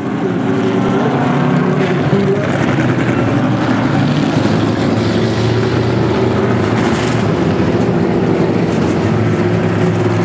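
A field of Pure Stock race cars' engines running together at a steady, moderate pace, with no big revving.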